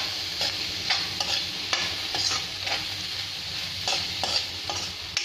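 Egg, onion and green chilli masala frying in oil in a non-stick kadai, sizzling steadily while a spatula stirs it, with a short scrape against the pan about every half second.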